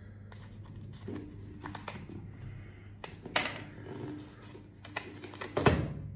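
Scissors cutting through the hard shell of a steamed giant isopod: several separate snips and cracks, the loudest near the end, over a low steady hum.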